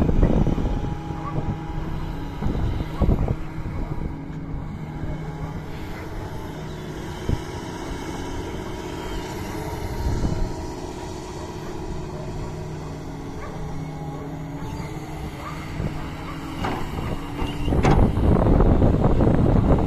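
Doosan DX225 excavator's diesel engine running, louder at the start, settling to a steadier, quieter hum through the middle, then rising again about two seconds before the end. A sharp knock comes just before it grows loud again.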